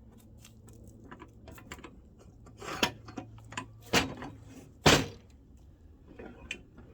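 Clunks and clicks of wood and metal parts being handled while the chainsaw mill is set up for a cut: three louder knocks, about three, four and five seconds in, with lighter clicks between.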